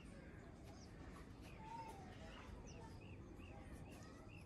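Faint bird chirps over a quiet background: a short call repeated about twice a second through the second half.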